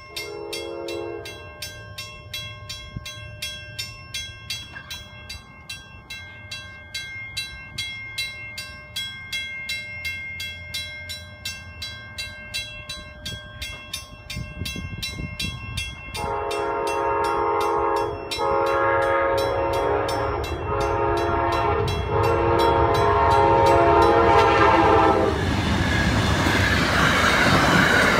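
Grade-crossing bell ringing at about two strokes a second, with a brief horn toot from the approaching train just after the start. About 16 s in, the Amtrak GE P42 locomotives' horn sounds for the crossing in a series of blasts, the last one long. Near the end the train passes with loud rumbling and wheel clatter on the rails.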